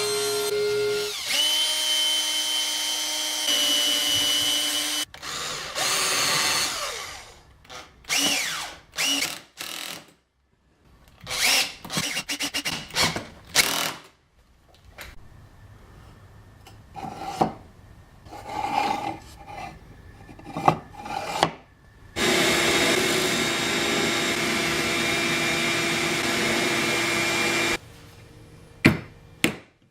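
Electric power tool running steadily, its pitch stepping a couple of times. Stretches of short, irregular workshop noises and pauses follow, then a second steady run of the tool. A few sharp knocks come near the end.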